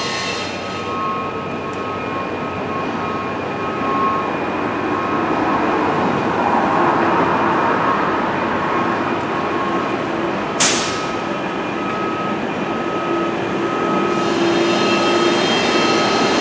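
Train running along, a steady rumble with a few faint held tones and one sharp click about ten seconds in.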